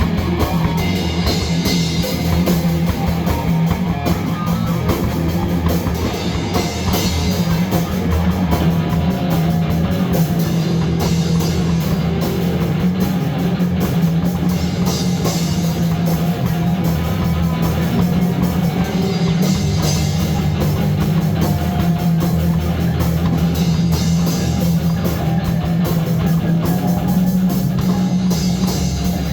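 Loud rock music with a drum kit and guitar, playing without a break.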